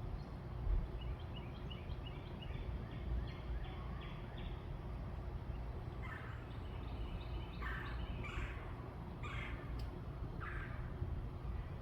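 Backyard birds calling: a quick run of repeated high chirps, then, from about halfway through, four or five louder, harsher calls, over a steady low rumble.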